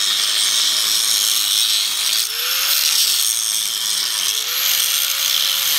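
Angle grinder grinding steel, working down the weld on a repaired leaf spring to make it flush. The disc gives a steady, hissing grind, and the motor's pitch rises and falls twice as the load eases and comes back.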